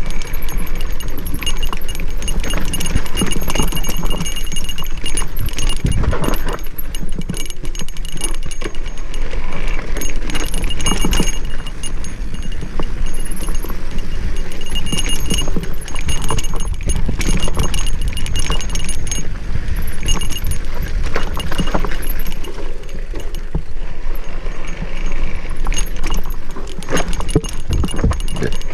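Mountain bike riding down single track: continuous rattling and clattering of the bike over bumps in the trail, many short knocks in quick succession. Wind rumbles on the microphone underneath.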